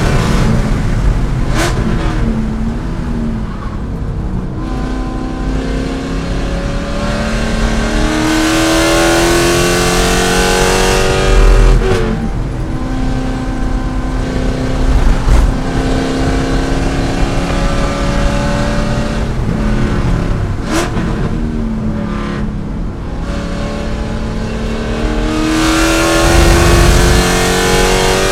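Chevrolet C5 Corvette's V8 engine at racing speed, climbing in pitch under acceleration several times and dropping back as it shifts or lifts for corners, with a few sharp knocks.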